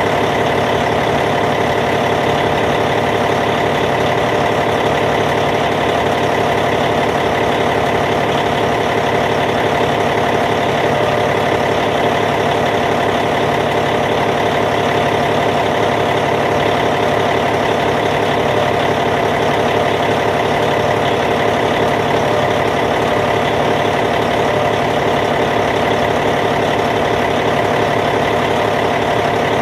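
Caterpillar C15 diesel engine in a Cat D8T dozer idling steadily, an even low diesel clatter.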